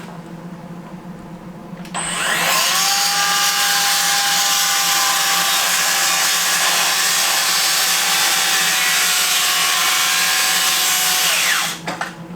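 Electric power saw spinning up, running steadily through wood for about nine and a half seconds, then winding down.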